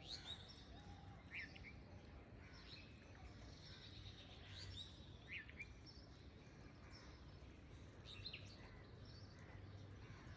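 Near silence: faint background hum with a few faint, short bird chirps scattered through.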